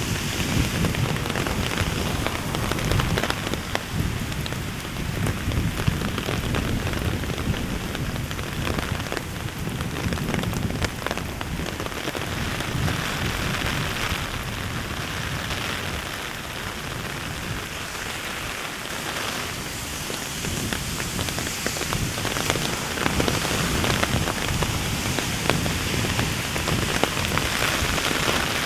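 Steady heavy rain falling, with a dense patter of individual drops striking close by.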